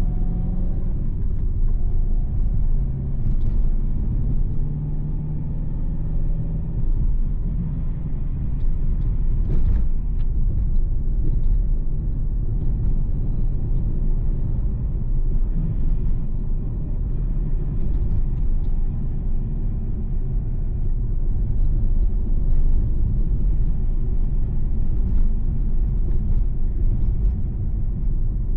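Steady low rumble, typical of road and engine noise heard inside a moving car.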